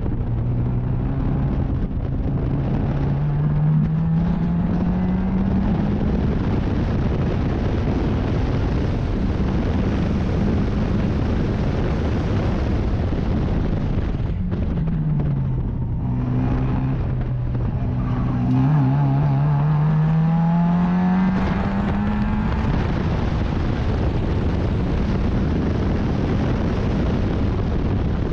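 Sports racing car engine under hard acceleration, its pitch climbing steadily, dropping about halfway through, then climbing again, over a heavy rush of wind and road noise.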